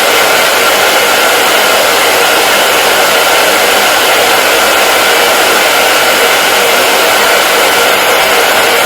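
Hair dryer running continuously: a loud, even rush of blown air with a faint steady whine from the motor and fan.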